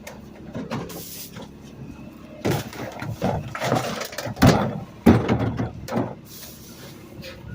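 Irregular clunks, knocks and rattles in a run from about two and a half seconds in, with two sharp bangs near the middle, and a short hiss about a second in and again near the end.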